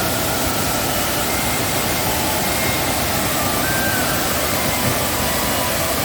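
Waterfall in heavy rainy-season flow: a steady, loud rush of falling water.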